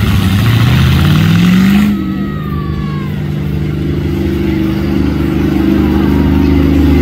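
Monster truck engine revving up over about two seconds with a loud rush of exhaust, then holding at a steady higher speed.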